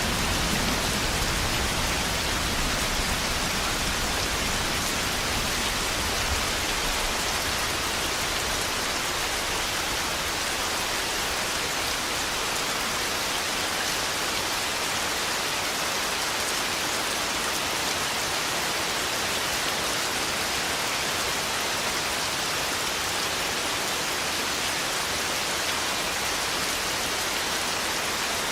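Steady, even rainfall, with a low thunder rumble dying away over the first several seconds.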